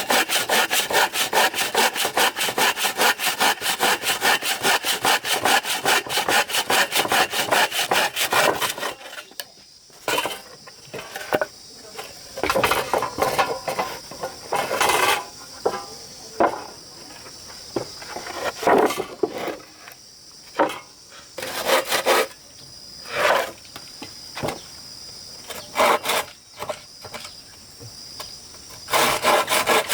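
Hand saw cutting through wood in fast, even back-and-forth strokes, which stop about nine seconds in. Then come short, scattered scraping strokes on wood over a steady high insect drone. Fast, even sawing starts again near the end.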